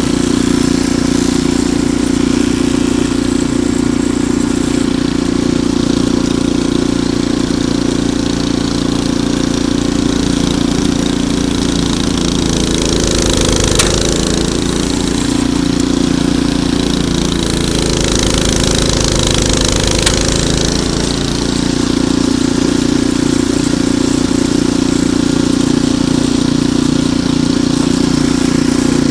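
Ariens Deluxe 28 snowblower engine running steadily. For several seconds in the middle its note shifts and a hiss joins in, then it settles back to an even run.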